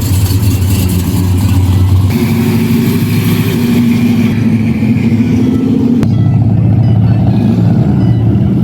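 Loud car engine running, its pitch changing about two seconds in and again about six seconds in.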